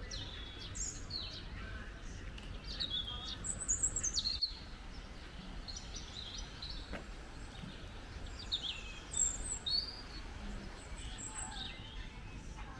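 Several songbirds chirping and singing, short high calls scattered throughout, with busier flurries about a third of the way in and again past the middle, over a steady low background rumble.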